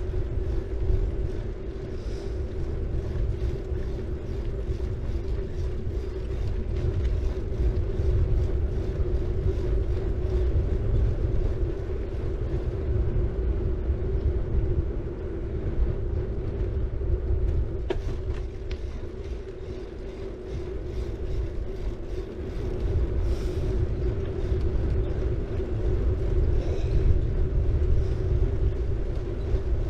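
City bike rolling along the road: steady tyre and drivetrain noise with low wind rumble on the action-camera microphone. Twice in the second half the disc brake pads give a brief high squeal.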